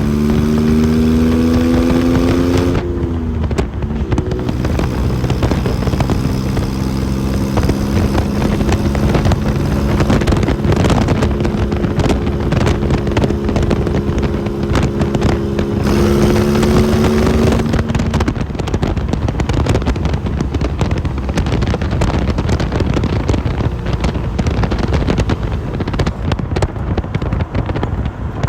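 Supercharged 3.8-litre V6 of an open Lotus Seven–style roadster under way. The engine note climbs for about three seconds, drops at a gear change, then holds steady, with another brief rise and drop near the middle. Later the engine note fades under heavy wind noise.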